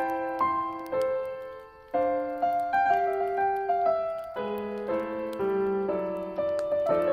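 Solo piano playing a melody over chords, with a short lull just before two seconds in. Faint crackles of a wood campfire tick through it.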